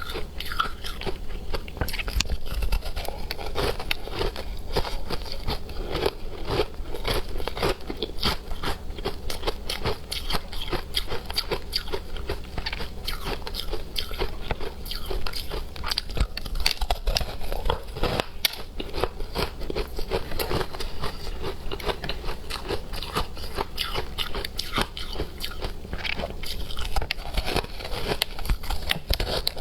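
A person biting and chewing hard frozen matcha ice: steady, dense crunching made of many sharp cracks.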